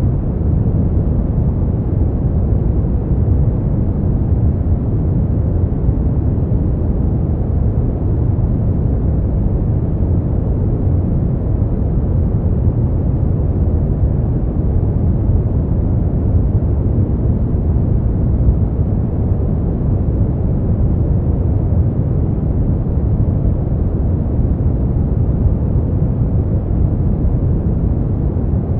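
Brown noise: a steady, deep rumbling hiss, strongest in the low end and fading away in the highs, with no change throughout.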